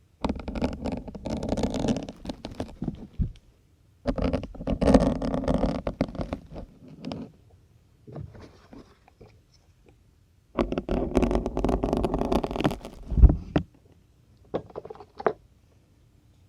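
Syringe needles worked through a dense foam sponge close to the microphone: squeaky, rasping scrapes in three main bursts of about three seconds each, with shorter, quieter scrapes between them.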